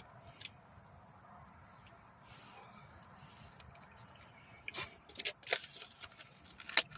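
Quiet eating of macaroni and cheese: a few sharp clicks and taps in the second half, over a faint steady high-pitched whine.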